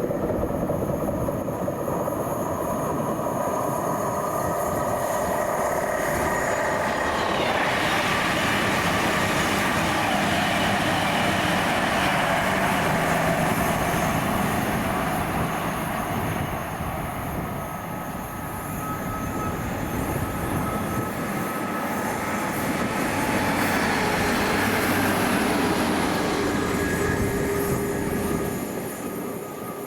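A train passing through on the main line, its wheel and rail noise building about seven seconds in and easing near the end.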